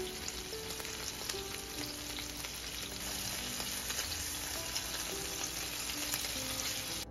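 Hamburger patties of ground beef and pork sizzling and crackling in an oiled frying pan as they brown.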